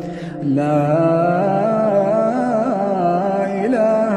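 A male Quran reciter's voice in melodic tajwid recitation, drawing out a long ornamented note that wavers in pitch, after a brief break at the start.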